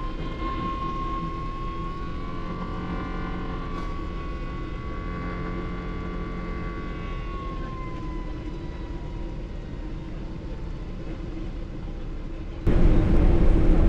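Boeing 777 Rolls-Royce engines heard from inside the cabin on final approach: a steady rush with a clear whistling engine tone that drifts slightly in pitch and fades. Near the end the sound jumps suddenly to a much louder rumble as the aircraft touches down on the runway.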